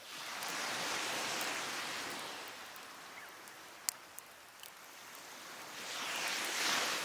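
Surf washing up the beach in two slow swells, one at the start and one near the end. A few sharp pops from burning firewood come in between, the loudest about four seconds in.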